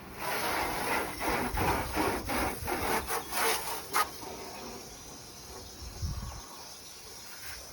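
Repeated rubbing strokes on the car's body, about two a second, from cleaning cobwebs and dirt off it; they stop about four seconds in.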